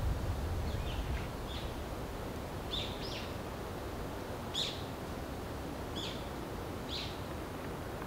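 A small bird calling: short, sharp chirps, about eight of them scattered roughly a second apart, over a steady background hiss. A low rumble fades out in the first second.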